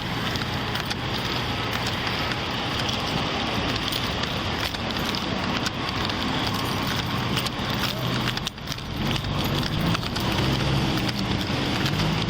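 Steady rushing noise with fine crackling on a body-worn camera's microphone, over the low hum of an idling vehicle engine.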